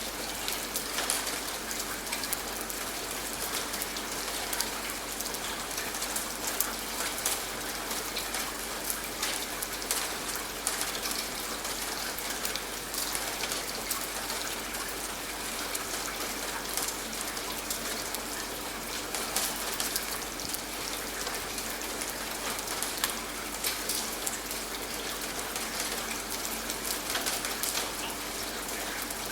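Steady rain falling on a hard surface: a continuous hiss dense with the sharp ticks of individual drops striking.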